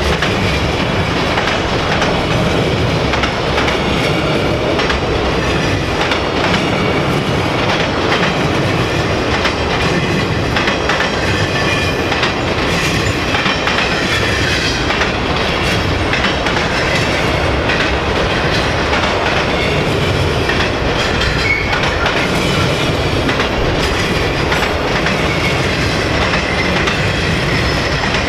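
Freight train of enclosed autorack cars rolling past at steady speed: a continuous rumble with the wheels clacking over rail joints, and faint high squeals here and there.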